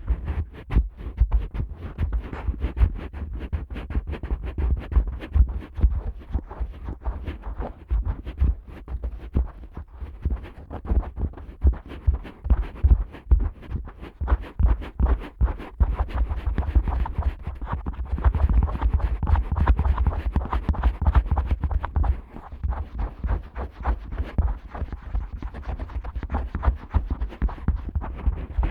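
Fingertips scratching the silicone outer ear of a Neumann KU100 dummy-head microphone. The strokes are dense, rapid and uneven, and the close contact gives a deep, muffled rumble under the scratching.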